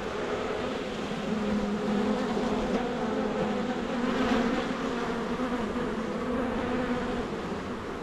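Many honeybees buzzing around an open hive during a frame inspection, a steady, wavering drone.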